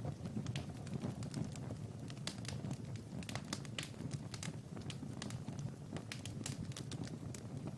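Wood fire crackling in a fireplace: many quick, sharp snaps over a low, steady rumble of flame.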